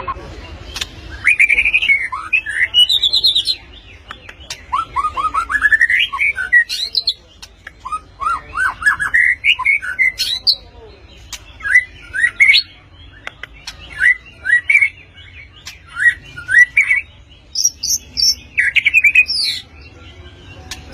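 White-rumped shama (murai batu) singing in separate phrases of sharp, rising whistled notes, with short pauses between them.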